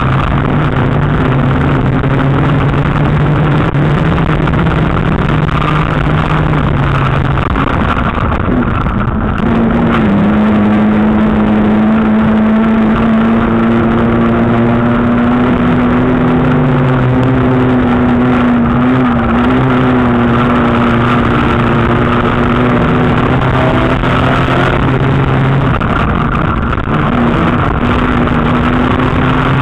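Old street banger's engine heard from inside its cabin, running loud and steady at a lower pitch, then revving up about ten seconds in and holding higher with a wavering pitch, before dropping back near the end.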